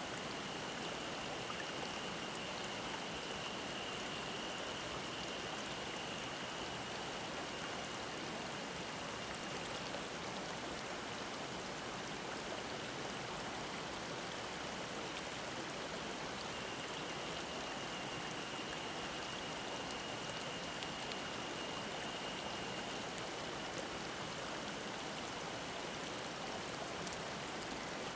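Mountain stream rushing in a steady murmur, with cicadas shrilling as a thin high drone over it that swells for the first third and again a little past the middle.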